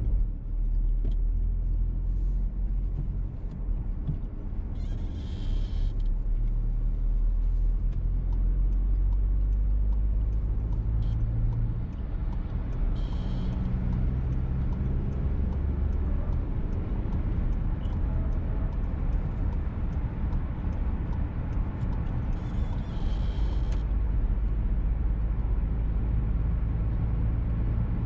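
Interior noise of a VW T-Roc petrol car driving: a steady low engine and road rumble that shifts in pitch. Three times a brief high-pitched squeak rises above it, the squeak heard in this car throughout the drive.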